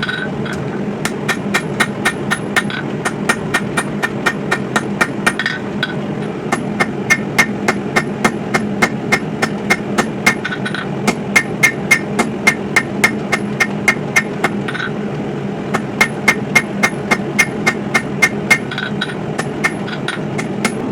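A 3-pound hammer striking hot coil-spring steel on an anvil while drawing out a knife's handle: sharp, ringing blows about three a second, in runs broken by short pauses, over a steady low rush.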